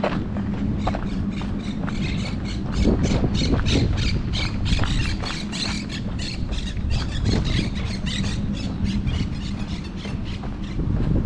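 Birds squawking in a rapid run of short, repeated calls, thickest in the middle and thinning near the end, over a steady low hum.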